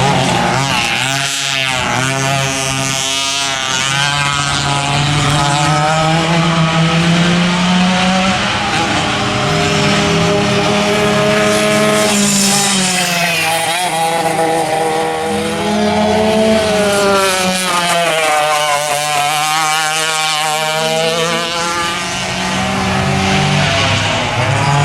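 Vintage racing go-kart engines running hard, their pitch falling and climbing again several times as they back off and accelerate.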